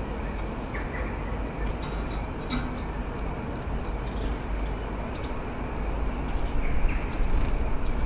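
Steady low rumble with a few short, faint small-bird calls: about a second in, near the middle and near the end, over light scattered ticks.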